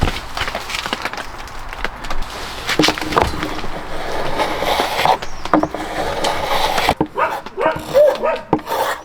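Hand tool scraping and rubbing along the edges of wood, smoothing them, with scattered light knocks. Near the end it gives way to a series of short, rising-and-falling squeaks.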